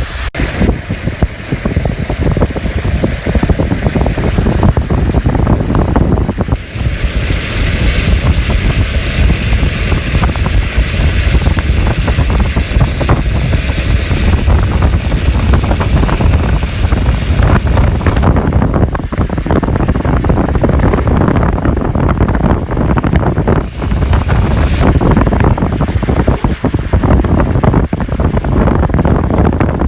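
Steady rushing of the rain-swollen Takahashi River, heavily overlaid by wind buffeting the microphone.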